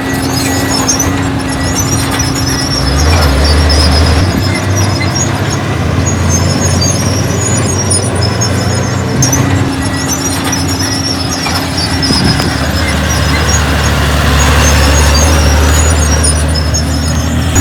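Heavy earthmoving machinery's diesel engine running, working harder about three seconds in and again near the end, with a string of high metallic squeals over it.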